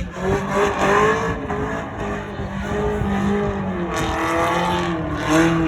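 Drift car engine revving, its pitch rising and falling as the throttle is worked, with tyre squeal.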